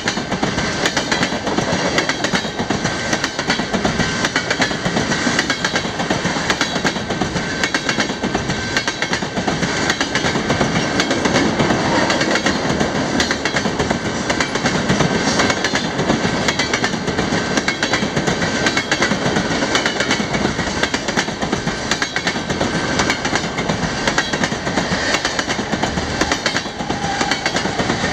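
Freight train rolling past at speed, its cars' wheels clacking steadily and rapidly over the rail joints.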